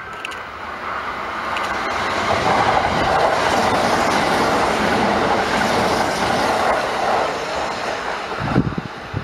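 Kintetsu limited express electric train passing through the station at speed. Its running noise swells as it nears, stays loud while the cars go by, then eases after the last car passes. A brief low thump comes near the end.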